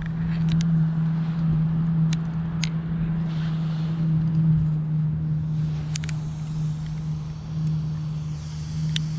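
Small camp stove burning steadily with a low, even hum as it heats water, with a few light clicks.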